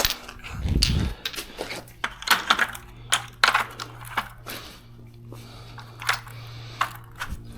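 Metal clinks and knocks of tools and brake parts being handled during a brake pad change, with a heavier thump about a second in, over a steady low hum.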